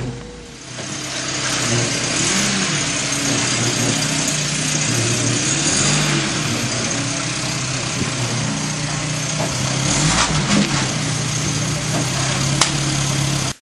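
Volvo 240 engine running steadily, its drone shifting a little in pitch, with a hiss over it. It cuts off abruptly at the end.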